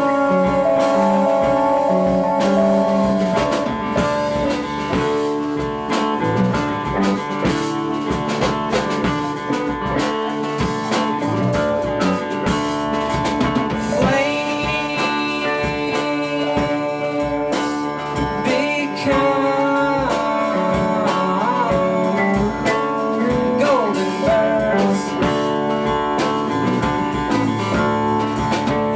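Live band music: guitars and a drum kit playing a blues-flavoured song, with singing.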